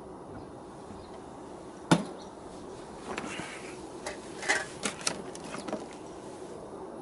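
A sharp knock about two seconds in, then a string of small clicks and taps of objects being handled, over a steady low hum.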